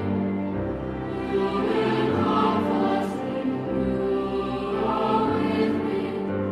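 Choral music: voices singing sustained chords that change every second or so.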